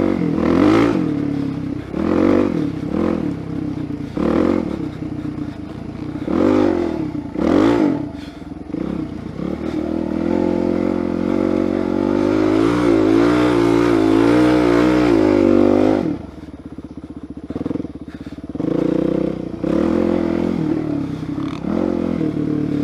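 Suzuki DR-Z400SM single-cylinder four-stroke engine under way, the throttle opened and closed in short surges every second or two. It then holds at steady high revs with the pitch wavering for about six seconds, and drops abruptly to a lower, uneven note with a few more surges near the end.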